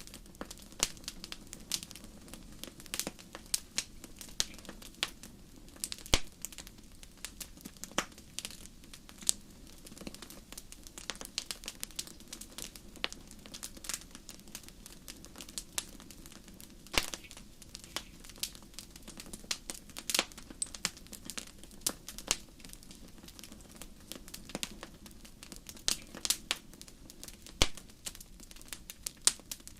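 Wood campfire crackling: irregular sharp pops and snaps, a few much louder than the rest, over a steady low hiss of burning.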